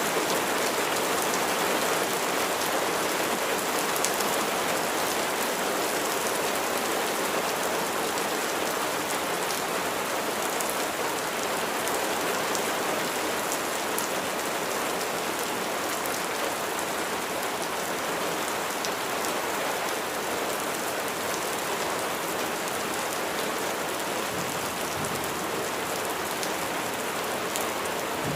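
Steady rain falling on surfaces, with a dense patter of individual drops.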